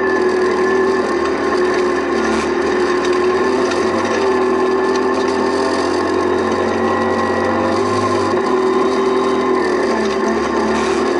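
Rally car engine running hard at high revs, heard from inside the cabin. Its pitch holds fairly steady with small rises and dips, over a constant rush of tyre and gravel noise.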